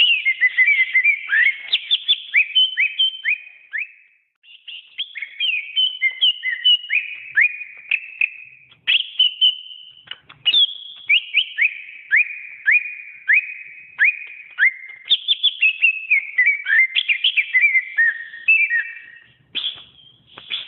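Cucak ijo (green leafbird) singing a fast, varied run of clear whistled notes, many of them quick sliding phrases, with short breaks about four and nine seconds in.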